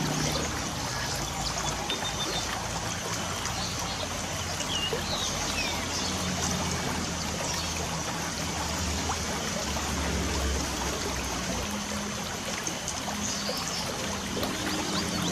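Light rain falling steadily, a dense even hiss of small drops and trickling water, with a few faint bird chirps over it.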